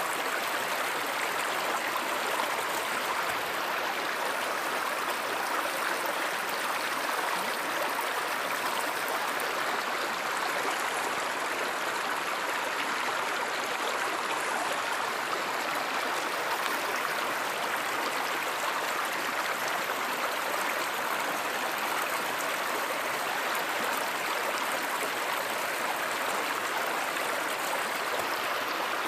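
A flowing stream or river, an even, steady rush of running water.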